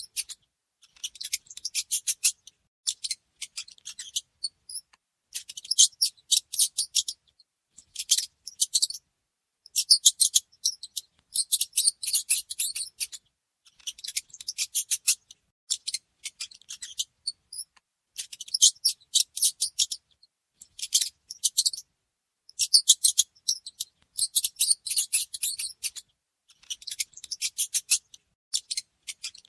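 Mouse sounds: quick trains of high-pitched clicking and scratching chatter, coming in bursts of about a second with short silent gaps between.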